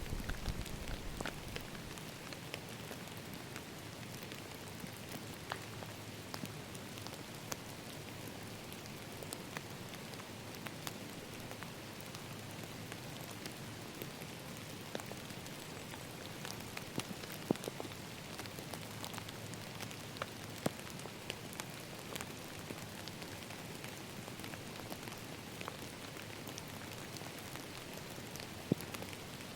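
Steady rain falling, an even patter with many scattered sharp taps of single drops. A low rumble dies away about two seconds in.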